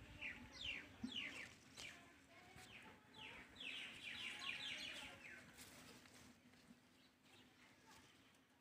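Birds chirping: a quick series of short falling chirps, thickest about four seconds in, then fading away.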